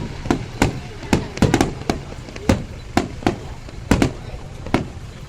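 Aerial fireworks going off: about a dozen sharp bangs, irregularly spaced, over a continuous low rumble.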